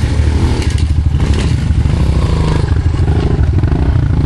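Small off-road motorcycle engine running at low revs, the throttle opening and closing so that the pitch rises and falls while the bike is ridden slowly.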